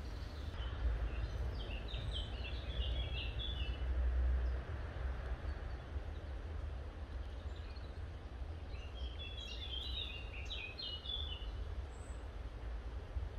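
A small bird singing two bouts of quick chirping notes, each about two seconds long and several seconds apart, over a steady low rumble that swells around four seconds in.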